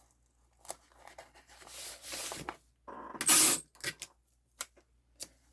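Craft tape being pulled and torn for a journal page: a short rasping tear a little past three seconds in is the loudest sound, after a softer rustling pull, with a few light clicks of paper and tools being handled.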